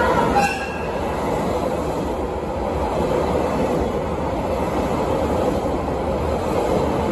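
Electric limited express train passing close by: a steady rush and rumble of wheels on rail as the cars go past. It follows a louder sound that cuts off about half a second in.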